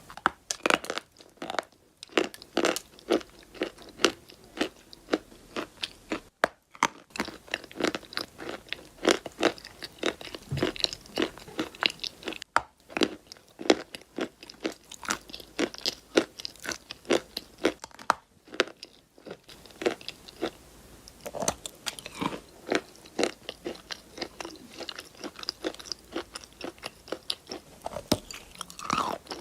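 Close-miked crunching and chewing of chalk: sharp, dry crunches come about two or three a second as pieces are bitten and chewed, with a few brief breaks.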